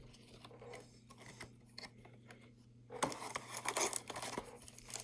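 Plastic card-pack wrapper crinkling and tearing, with cards being handled, starting about three seconds in after a few light ticks, over a faint steady hum.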